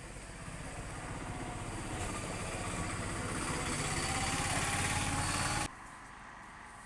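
A vehicle engine running, with a low, even pulse, slowly growing louder and then cut off suddenly near the end.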